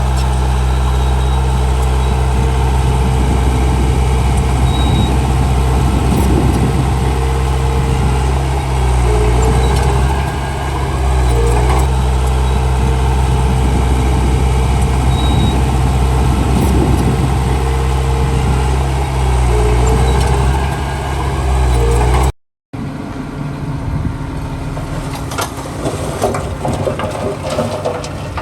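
Heavy diesel engine of earthmoving machinery running steadily at low revs, its pitch dipping and rising slightly. About 22 seconds in the sound cuts off abruptly, then gives way to a quieter mix of engine noise with scattered clanks and crunches.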